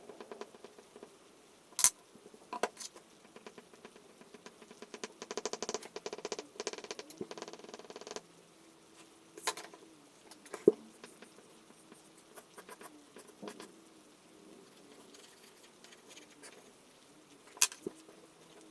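Charcoal scratching and tapping on paper: scattered sharp taps, and a run of fast scratchy strokes about five seconds in that lasts about three seconds.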